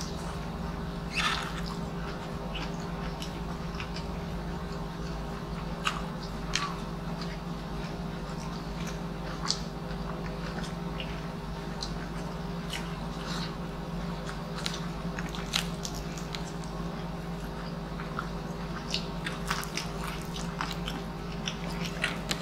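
Close-miked eating by hand: chewing with scattered short, crisp bite and mouth clicks as rice, string beans and crispy fried pork knuckle are eaten, over a steady low hum.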